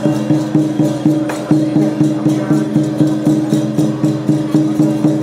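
Lion dance percussion band of drum, gongs and cymbals beating a fast, even rhythm of about four to five strokes a second.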